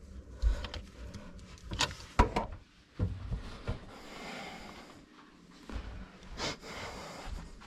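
Clicks and knocks of tap parts and tools being handled during a plumbing repair, with a soft hiss for a second or two in the middle.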